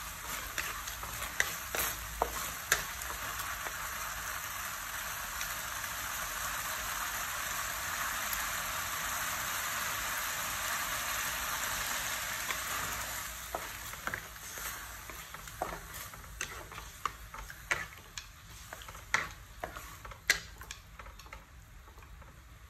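Sliced beef sizzling in sauce in a metal wok, with a wooden spatula scraping and clicking against the pan. The sizzle dies away about halfway through as water is poured in, leaving mostly the spatula's clicks and scrapes.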